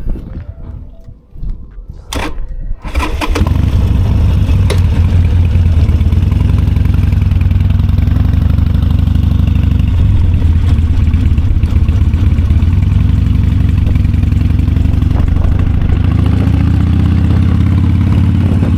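Motorcycle engine cranked on the starter, catching about three seconds in, then idling steadily with a low, even rumble.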